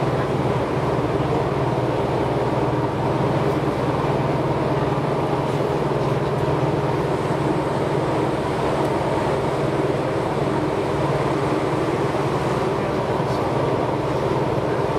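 Tobu 6050 series electric train running steadily at speed, heard from inside the carriage: an even rumble of running noise with no change in pace.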